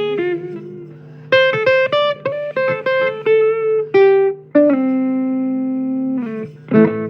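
Guitar playing a blues run of single plucked notes, with one note held and ringing for about a second and a half past the middle before a quick few notes near the end.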